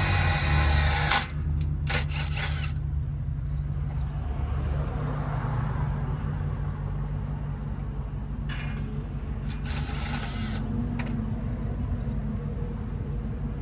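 Power drill boring through steel with a bit that cuts easily; the whine stops about a second in, followed by a few short bursts of drilling, over a steady low hum.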